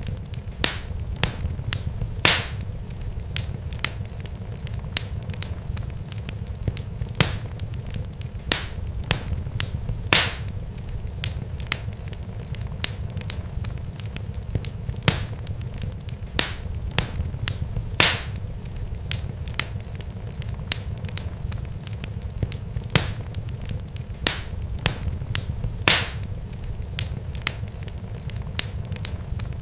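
Fire crackling: irregular sharp pops and snaps, a few of them louder, over a low steady rumble.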